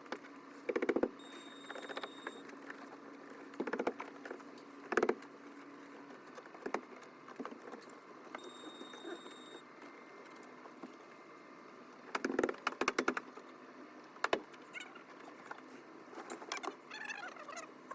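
Short bursts of clicking and rattling, hard parts or tools being handled, heard several times, over a low steady hum that stops about six seconds in.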